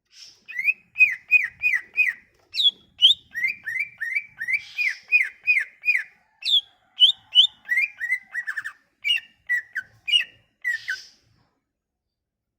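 Cucak ijo (green leafbird) singing: a run of loud whistled notes, each sweeping downward, repeated about three times a second, then a more varied phrase mixing higher and lower notes. The song stops about eleven seconds in.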